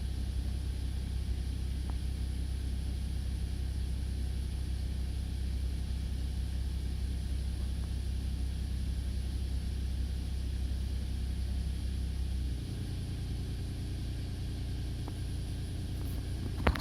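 Car engine running steadily with a low hum, without the abnormal noise that the owner ties to the engine and generator and that has largely cleared since a dose of engine cleaner in the fuel. About three quarters of the way through the hum drops slightly and its pitch shifts. A brief click comes at the very end.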